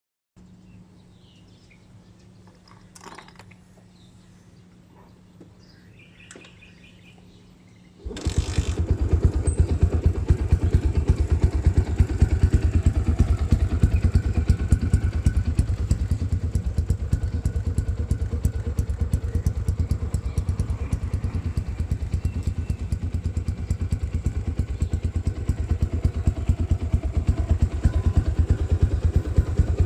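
Yamaha LC135 single-cylinder four-stroke engine, bored out to 260cc, started from cold: faint clicks at first, then about eight seconds in it catches suddenly and settles into a steady idle with rapid, even exhaust pulses.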